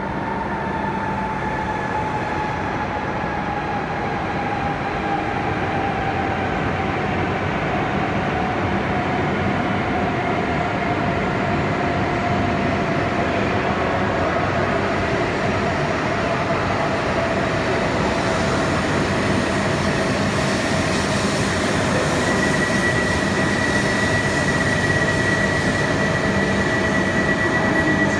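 E5-series Shinkansen running into an underground station platform and slowing. Its motor whine falls steadily in pitch, and the running rumble grows louder as the cars pass. A high, steady squeal joins about three-quarters of the way through.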